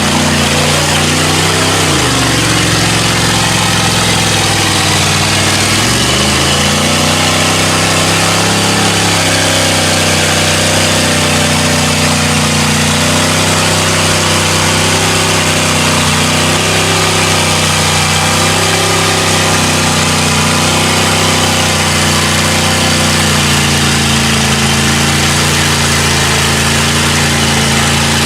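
Off-road mud truck's engine running steadily at high revs, its pitch dipping and climbing back twice in the first several seconds, then holding nearly even with slight wavers.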